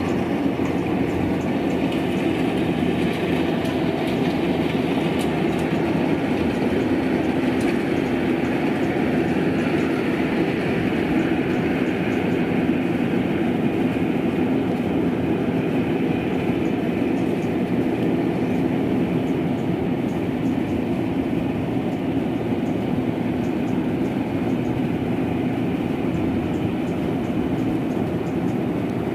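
A rice combine harvester running, a loud, steady mechanical drone that holds without a break.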